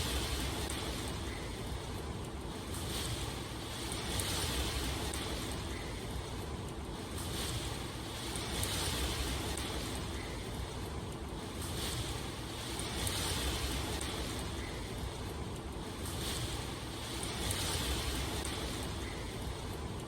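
Steady rushing water noise that swells and fades in a regular rhythm, about once every two seconds.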